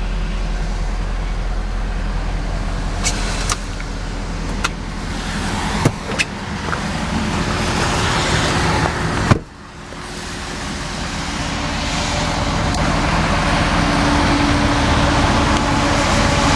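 Ford F-550's 6.7 Power Stroke V8 turbo-diesel idling steadily. A handful of sharp clicks and knocks come between about three and six seconds in, and a louder knock a little after nine seconds.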